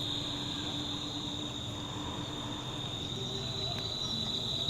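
Insects trilling in a steady, unbroken high-pitched drone.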